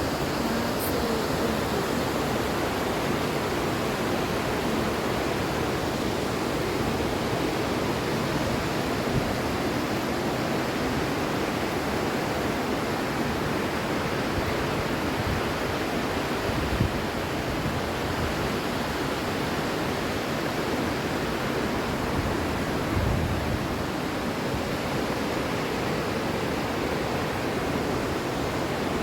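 Steady rushing noise of a large waterfall, its water pouring down without a break.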